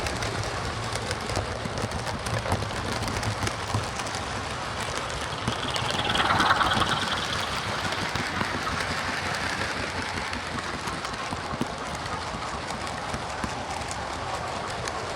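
OO gauge Sutton's Locomotive Workshop Class 24 model locomotive running on track, its sound decoder playing a diesel engine through the model's small speaker over the rumble of the wheels and motor. The sound swells briefly about six seconds in.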